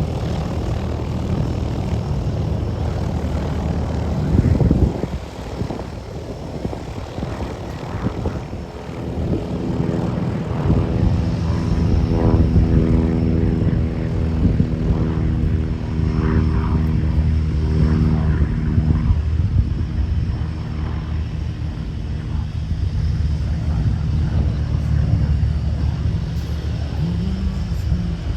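A single-engine piston light airplane's engine and propeller running, with a steady droning tone that grows louder through the middle of the stretch. A brief, louder rush of noise comes about four seconds in.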